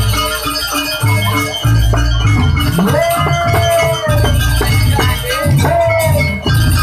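Loud live jaranan ensemble music: deep drum and gong beats under a held, wavering melody line.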